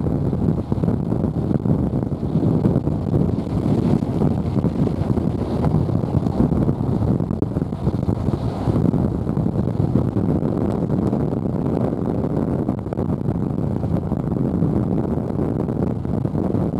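Steady rumble of wind and road noise inside a moving car, with air rushing through a window lowered about an inch.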